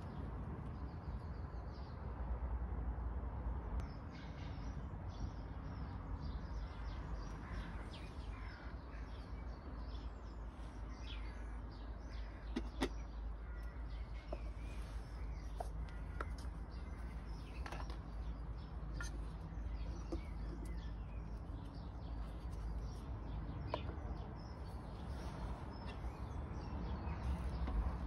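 Outdoor ambience of birds chirping and calling over a steady low rumble, with a few sharp clicks as the kettle and stove are handled.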